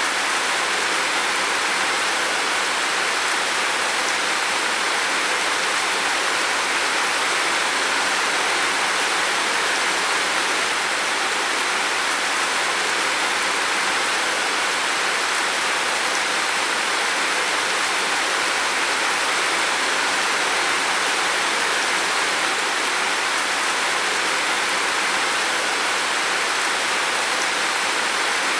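Heavy rain falling steadily on a roof: a dense, even hiss of rain with no letup or change in strength.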